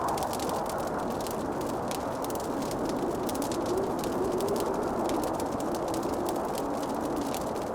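Wood fire crackling in a fireplace, a rapid scatter of small sharp pops and ticks over a steady low rushing noise with a faint wavering hum.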